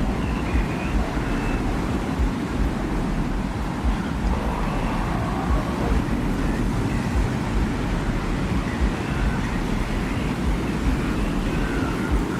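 Steady desert wind ambience, a constant deep rumble under a hiss of blowing air, with faint wavering higher tones coming and going.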